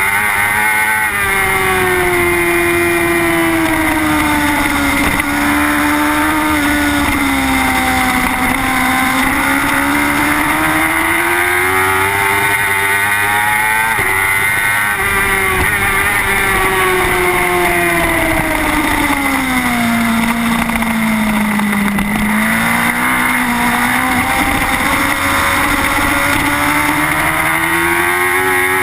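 Onboard sound of a Suzuki GSX-R superbike's inline-four engine at racing pace, its note rising under acceleration and falling as the rider brakes for corners, twice dipping to a low pitch before climbing again.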